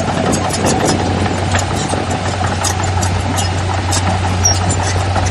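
Heavy diesel earthmoving machine engine running steadily with a constant low hum, with scattered short metallic clicks and clinks over it.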